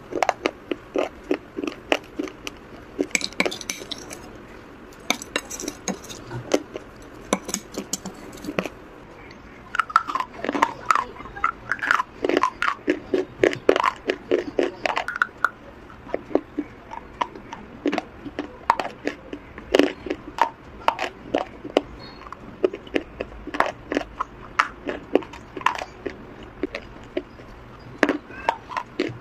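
A person biting and chewing hard baked-clay pieces: a long run of sharp crunches, several a second, busiest in the middle stretch.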